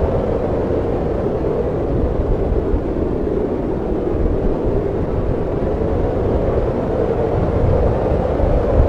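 Snowstorm wind blowing steadily: a loud, low, even rushing noise with no distinct gusts or other events.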